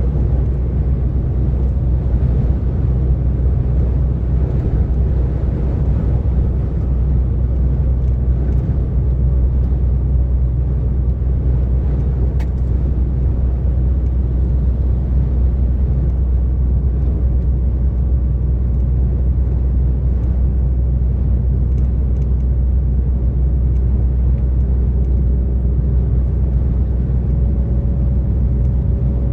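DAF XF 460 lorry's PACCAR MX-13 six-cylinder diesel running steadily at motorway cruising speed: a low, even drone over tyre and road noise.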